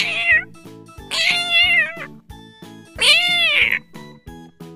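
A domestic cat meowing three times: a short meow at the start, then two long meows, the last rising and falling in pitch. Background music with a steady beat plays underneath.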